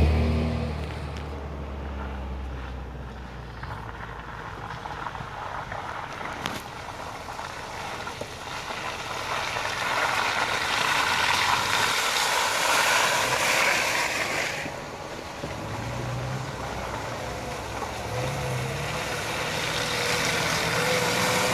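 Lada Niva off-road cars running slowly through deep mud. One engine dies away at the start as it moves off. More Nivas then come closer, their engines growing louder, with short rising revs in the last third.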